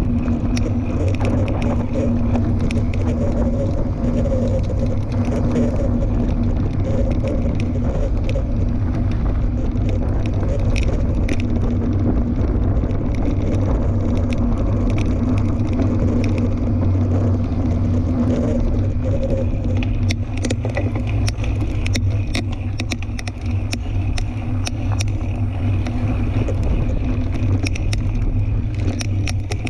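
Fat-tire tandem mountain bike rolling over a trail: a steady low rumble with a humming tone from the tyres that fades out about two-thirds of the way through, after which sharp clicks and rattles come thick and fast over rough ground.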